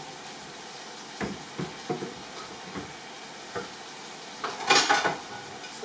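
Chicken tikka pieces sizzling in a large frying pan while a metal ladle stirs them, knocking against the pan several times. A louder clatter of the ladle comes about four and a half seconds in.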